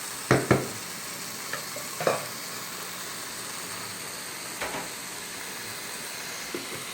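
Steady sizzling hiss of food cooking on the stovetop, with a few sharp knocks of a utensil against a pan: two quick ones just after the start, one at about two seconds and a fainter one near four and a half seconds.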